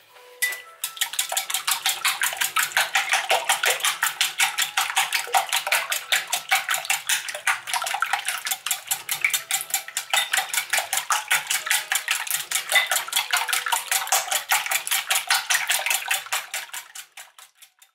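Metal wire whisk beating eggs in a ceramic mixing bowl: rapid, even clicks and scrapes of the wires against the bowl, about five strokes a second, slowing and fading out near the end.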